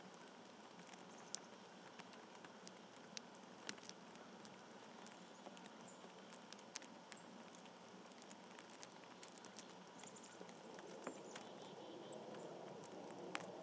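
Birds and small critters pecking and scrabbling at a feeder: faint, scattered light ticks and taps, over a low rush that grows louder near the end.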